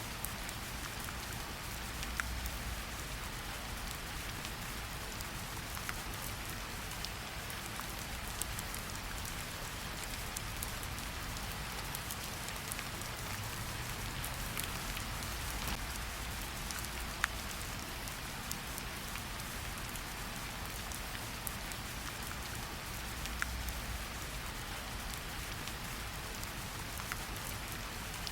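Steady rainfall in a forest, an even hiss of rain with scattered sharper drops landing close by.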